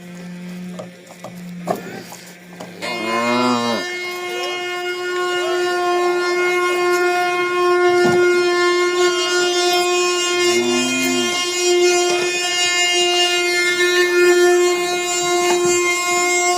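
Wooden ox cart's axle singing: a steady, high, droning whine from the wheels turning on the axle as the loaded cart is hauled. It starts about three seconds in, with two short rising-and-falling calls over it, one at the start of the drone and one around eleven seconds.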